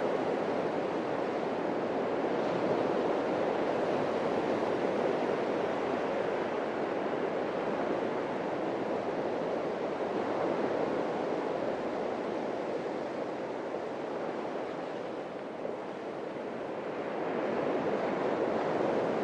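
Atlantic Ocean surf washing onto a beach: a continuous, even rush of breaking waves that eases a little past the middle and swells again near the end.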